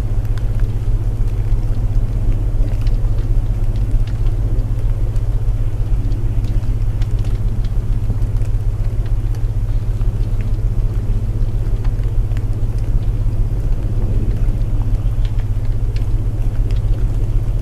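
Layered sleep soundscape: steady low binaural tones under the hiss of rain, with the scattered faint crackle of burning wood.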